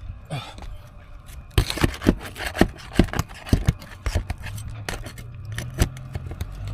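Shingle being pried up off a roof to reach a hidden nail: an irregular run of sharp clicks, snaps and scrapes through the middle few seconds.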